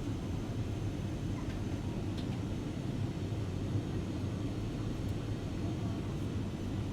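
Steady low rumble of an airliner's cabin in flight: jet engines and airflow heard from inside the passenger cabin.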